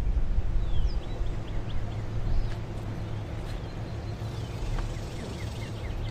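Small birds chirping in quick runs of short falling notes over a low, steady rumble that is loudest in the first couple of seconds.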